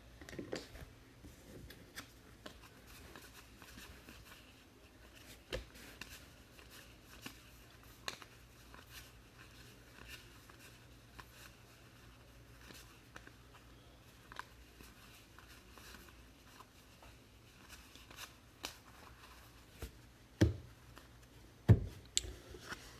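Allen & Ginter baseball trading cards being handled and flipped through. They make faint, scattered clicks and rustles, with two louder knocks near the end.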